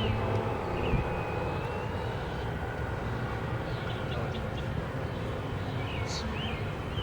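Steady low outdoor rumble, with birds chirping briefly several times in the second half.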